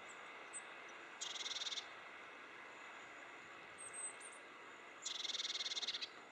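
An insect, cricket-type, gives two high buzzing trills of rapid even pulses, the first brief and the second about a second long. A few faint high chirps come between them.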